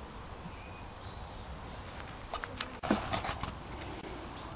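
Woodland birds calling faintly over steady outdoor background noise, with a brief cluster of sharp clicks and rustles a little past halfway. Just before the end a bird starts chirping in quick repeated bursts.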